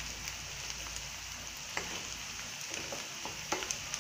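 Chopped onions, garlic and dried red chillies sizzling in hot oil in a kadai, with a steady frying hiss. The spatula stirring them scrapes and taps against the pan a few sharp times in the second half.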